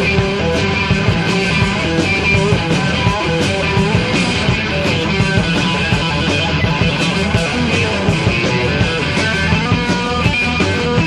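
Rock music with electric guitar and drums playing continuously at a steady, loud level.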